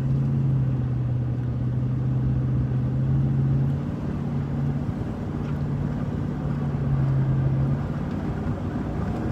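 Truck's V8 engine and exhaust running while driving: a steady low hum that swells and eases slightly a few times.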